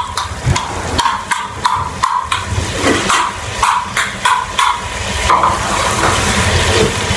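Metal spoon knocking and scraping in a cooking pot of chicken, two or three sharp knocks a second. About five seconds in, a steady hiss takes over as water is poured into the hot pot.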